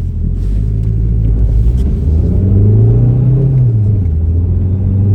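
SEAT Leon FR diesel engine accelerating hard under load. Its pitch climbs steadily, drops about three and a half seconds in, then holds and climbs again.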